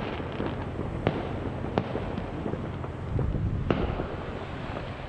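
Fireworks going off at a distance: a steady crackle and rumble of many shells, with a few sharper bangs standing out, about one and two seconds in and again near four seconds.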